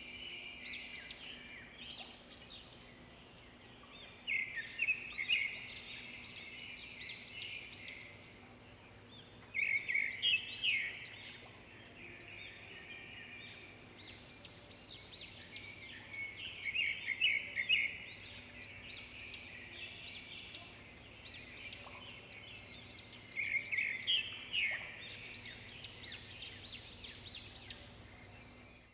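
Songbirds chirping and twittering, with louder bouts of quick repeated chirps about every six or seven seconds, over a faint steady low hum.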